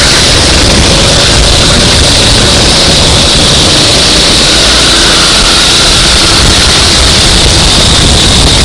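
Go-kart engine running at racing speed, loud and steady with a buzzy, distorted noise over faint shifting engine tones.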